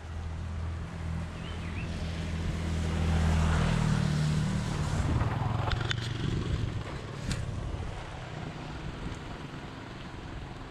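A motor vehicle's engine passing by: a low hum that builds to its loudest about three to four seconds in, then fades. A few sharp clicks follow about six and seven seconds in.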